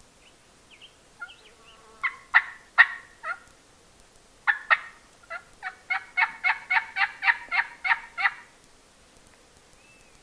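Turkey calls. A few faint notes are followed about two seconds in by a short run of loud notes, then a longer evenly spaced series of about a dozen notes at roughly four a second, which stops near the end.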